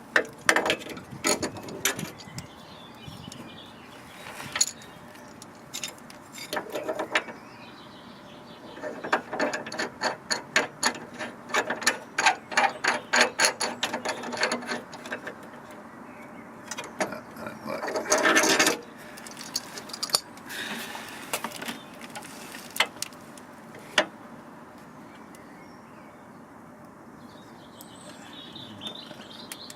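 Hand tools at work on metal: scattered sharp clicks and clanks, a fast run of repeated clicks from about a third of the way in, and a short, louder burst about two-thirds through.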